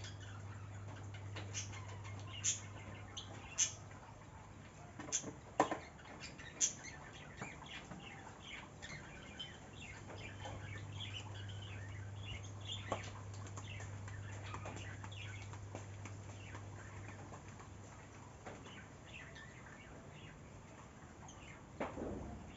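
Birds chirping in short, scattered calls, with a few sharper, louder chirps in the first seven seconds, over a steady low hum that drops out for a few seconds.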